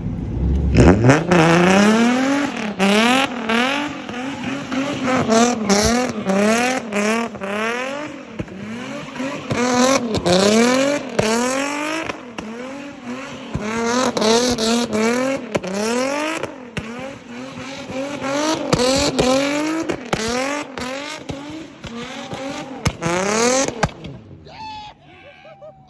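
A car engine revved hard over and over, the pitch climbing quickly and dropping back about once a second, while its tyres squeal as the car slides. The sound dies away near the end.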